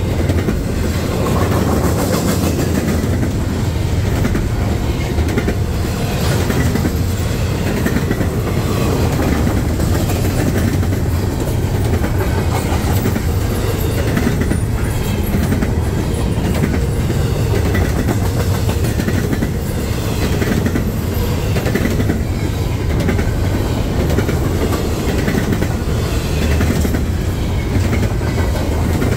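Freight train cars rolling past with a steady rumble, their wheels clicking over rail joints.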